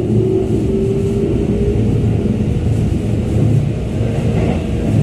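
Keikyu 600 series electric commuter train heard from inside the car while running: a steady rumble of the wheels on the rails, with a thin motor whine that rises slightly in pitch and fades out about a second in.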